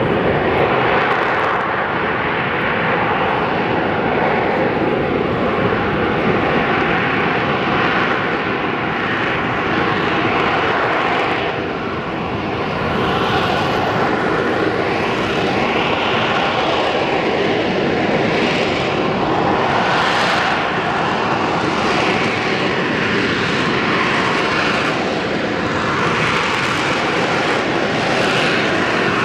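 AV-8B Harrier II+ jet flying its display, its Rolls-Royce Pegasus turbofan running loud and steady. The jet noise slowly sweeps up and down in pitch as the aircraft moves, and dips briefly about twelve seconds in.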